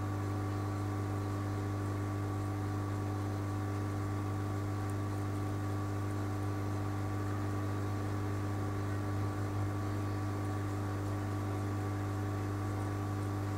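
Steady electrical hum: a low drone with several fixed higher tones over it, unchanging throughout.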